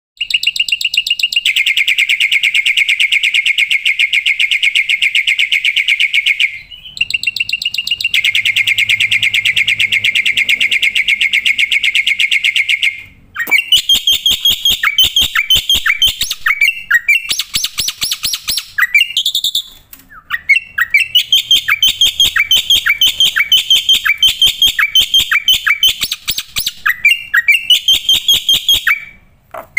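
Black-winged myna (jalak putih) singing loudly and continuously. It opens with two long, fast buzzing rattles, then moves into quick runs of sharp repeated notes mixed with short whistles.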